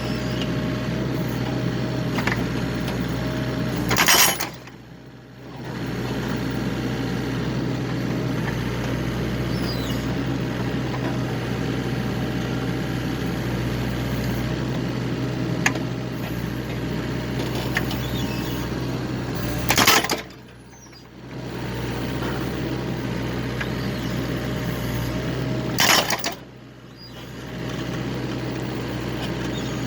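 Excavator engine running steadily while it splits firewood, with three loud sharp cracks spaced well apart as logs split.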